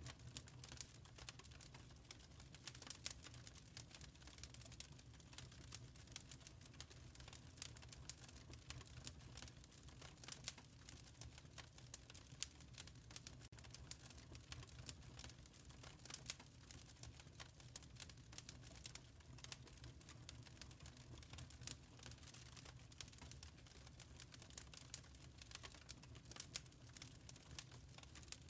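Quiet wood fire crackling, with frequent small, irregular pops and snaps over a low, steady rumble.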